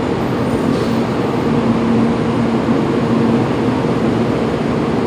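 Steady hum and whir from a Kyushu Shinkansen 800 series trainset standing at the platform, with a constant low tone over the noise.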